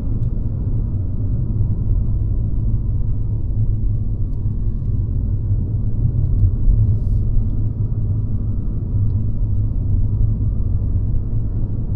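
Mercedes-Benz C-Class (W206) on the move: a steady low rumble of engine and tyre noise at cruising pace.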